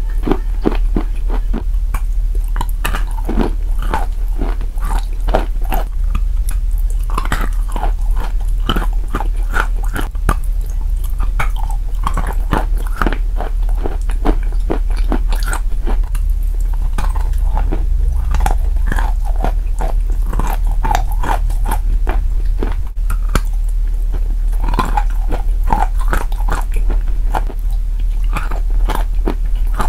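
Sawn chalk coated in wet clay paste being bitten and chewed right at a clip-on microphone: a run of crunches and wet mouth clicks, with a steady low hum underneath.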